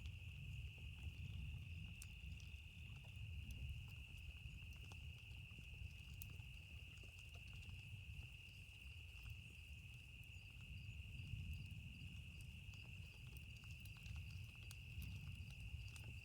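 Campfire crackling with sparse, sharp pops, over a steady high-pitched insect trill like crickets and a low rumble that swells and fades every few seconds.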